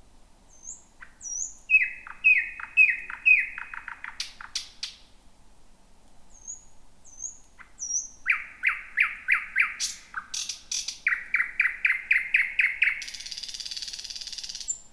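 A thrush nightingale singing two phrases. Each opens with thin, high whistles, then runs into fast series of repeated, falling notes. The second phrase ends in a harsh buzzing rattle lasting a second or two.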